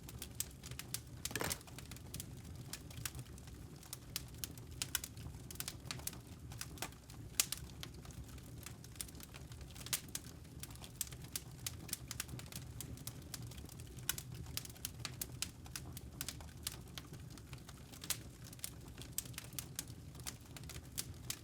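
Wood fire crackling: irregular snaps and pops over a low steady rumble, with one longer hissing crackle about a second and a half in.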